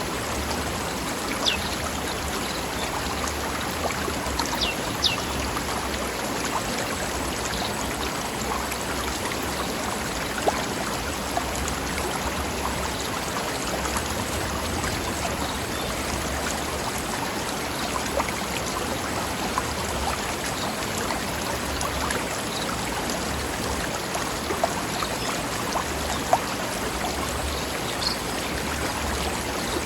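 A mountain stream flowing over rocks: a steady rush of running water, with small splashes here and there.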